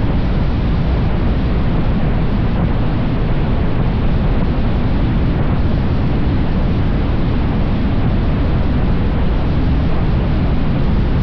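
Steady wind rush on the microphone of a motorcycle riding at speed, mixed with the motorcycle's running and road noise, loudest in the low range and unchanging throughout.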